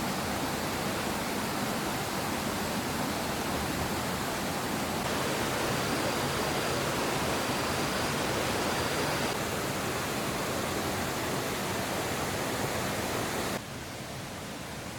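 Steady rushing noise with faint short high tones three times around the middle; it drops suddenly quieter near the end.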